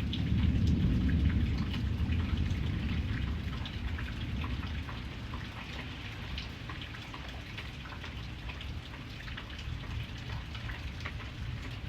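Steady rain falling on a surface, with many separate drops ticking through the hiss. A low rumble swells in the first couple of seconds and dies away.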